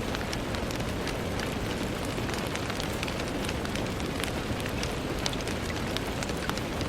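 Steady rain on window glass: an even hiss with many separate drops tapping sharply and irregularly against the pane.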